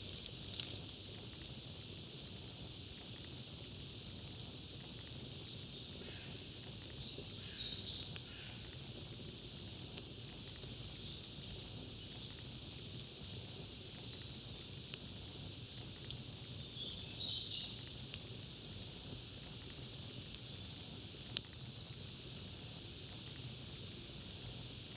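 Campfire crackling, with scattered small clicks, a couple of sharper pops and a steady high hiss. Short bird chirps come in about seven seconds in and again near 17 seconds.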